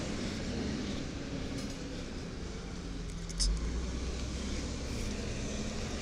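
Diesel engine of a 1993 WhiteGMC garbage truck running steadily, with light clinking and one heavy thump about halfway through.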